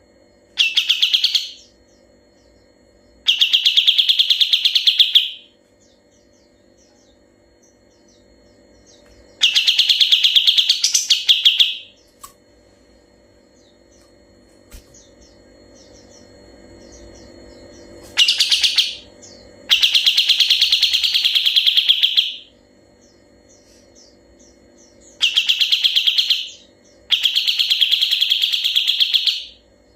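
Kapas tembak bulbul singing its fast, rattling rolled trill ('ngebren') in seven phrases of one to three seconds each, with quiet gaps between them. A faint steady hum sits underneath.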